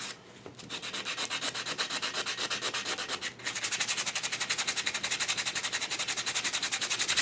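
Sandpaper rubbed by hand over a metal lathe part in fast, even back-and-forth strokes, about nine a second, smoothing out small dings and sanding marks. The strokes pause briefly about three seconds in and come back louder.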